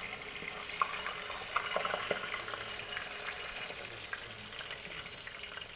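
Marinated chicken frying in hot oil in a pan: a steady sizzle with scattered small pops as the wet marinade spatters in the oil.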